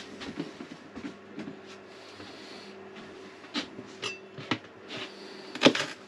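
Light kitchen clatter, scattered clicks and knocks of utensils and dishes, over the steady hum of a running electric air fryer. The loudest knocks come near the end.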